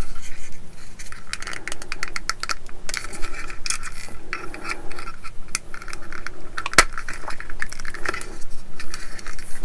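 Small plastic model-kit parts clicking and scraping against each other as a bracket's pins are worked into their holes on the engine sump, with one sharper click about seven seconds in.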